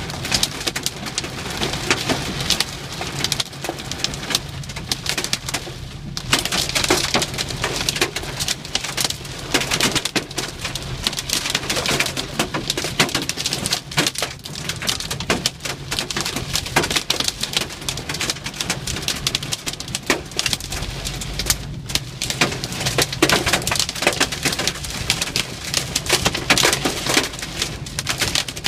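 Hailstorm: a dense, uneven clatter of hailstones striking, mixed with heavy rain, thinning briefly about six seconds in.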